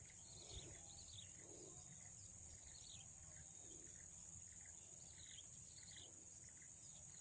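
Faint outdoor ambience: a steady high-pitched insect drone with scattered short, faint chirps repeating throughout.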